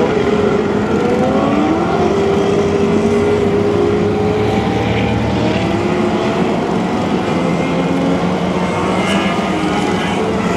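A field of mini sprint race cars running together, several engines at once, with their pitches rising and falling as the cars circle the track.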